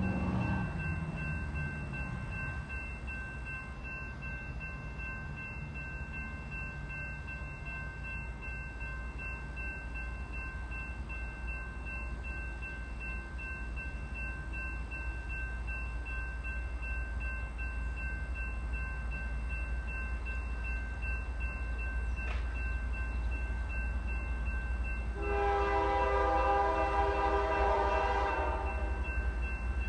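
A steady low rumble, with a train horn sounding one held blast of about three and a half seconds near the end.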